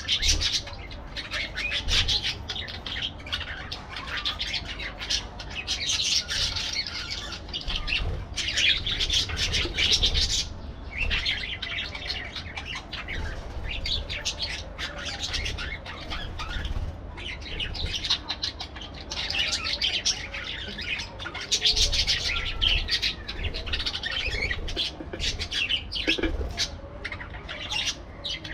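Parakeets chattering, chirping and squawking over one another in a busy, almost unbroken stream, with a couple of brief lulls about a third of the way in.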